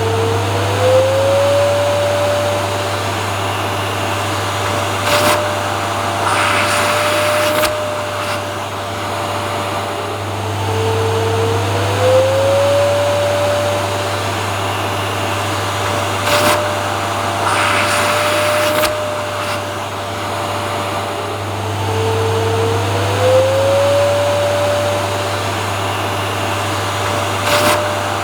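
Vacuum cleaner motor running steadily as a constant whooshing drone with a low hum, its whine rising a little in pitch and then holding. The same stretch repeats about every eleven seconds, each time with a couple of brief clicks.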